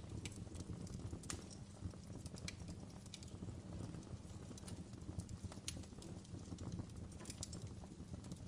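Wood fire in a fireplace crackling: irregular sharp pops and snaps over a low steady rumble of burning.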